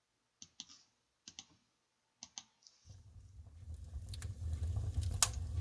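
A few faint clicks, then from about three seconds in a wood fire crackling over a steady low rumble, with a sharp crack near the end.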